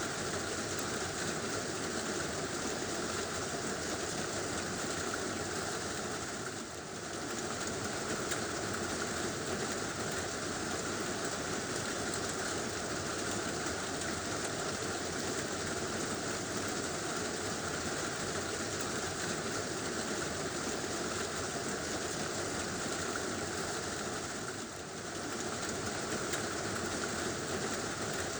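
Heavy rain drumming steadily on a tin roof, with two short dips in loudness, one about a quarter of the way in and one near the end.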